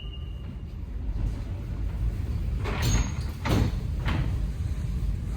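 Metro train's sliding passenger doors closing: the door warning tone fades out about half a second in, then three thuds come about three, three and a half and four seconds in as the doors shut, over the low hum of the standing train.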